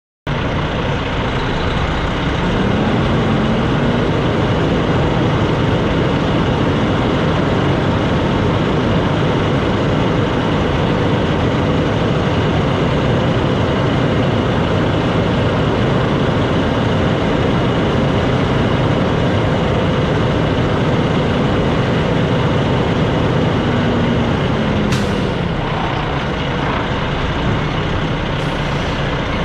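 Semi truck running: a steady, dense engine and road noise, with a sharp click about 25 seconds in.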